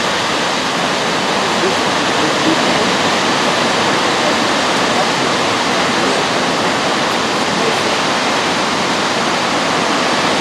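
Waterfall: a loud, steady rush of falling water, with no break or change.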